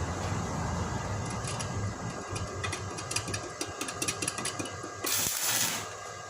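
Stick-welding arc crackling and popping with many sharp clicks as an electrode tack-welds steel angle iron, over a low hum that dies away after about two seconds. A short loud hiss comes near the end.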